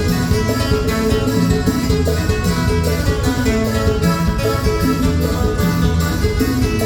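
A dance band playing live, with guitar over a steady beat.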